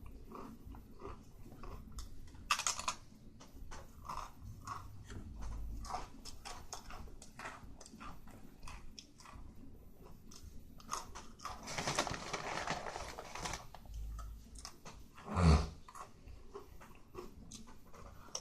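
A person chewing and biting food close to the microphone, a run of small clicks and crunches. A denser patch of chewing comes about twelve seconds in, and a single short loud low sound about fifteen seconds in.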